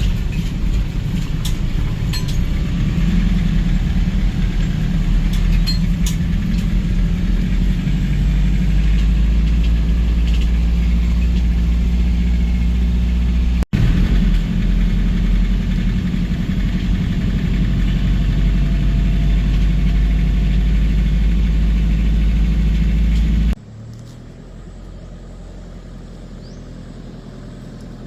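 Van engine running with a steady low rumble, broken for an instant about halfway through, then stopping abruptly a few seconds before the end and leaving a much quieter background.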